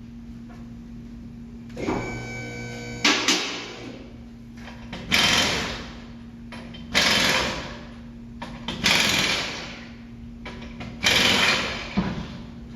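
Pneumatic impact wrench in short bursts, four of about a second each, after a short whine and two sharp metal clanks early on, as wheel hardware is taken off for a rear wheel bearing replacement.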